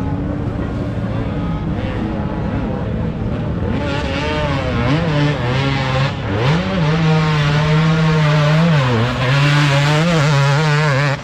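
Motocross dirt bike engines running. From about four seconds in, one bike close by revs hard, its pitch rising and falling again and again. The sound cuts off abruptly at the end.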